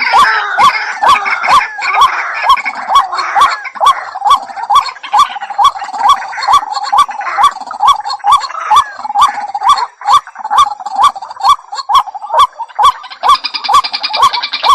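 White-breasted waterhen calling: a loud call repeated in a steady rhythm, about two to three notes a second, each note starting with a sharp click.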